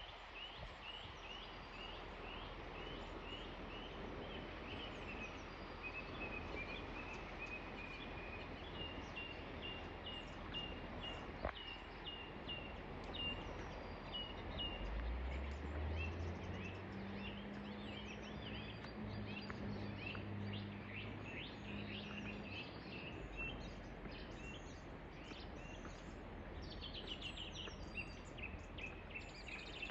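Many woodland birds singing short, rapidly repeated notes over the steady rush of a flowing river. About halfway through, a low droning hum rises, holds for several seconds and fades.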